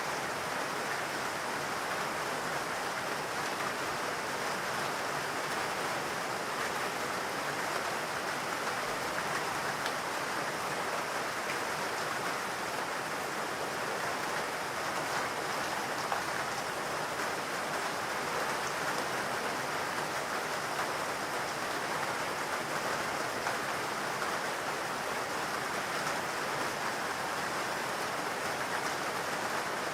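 Steady rain falling in a forest, an even hiss of drops that holds constant throughout.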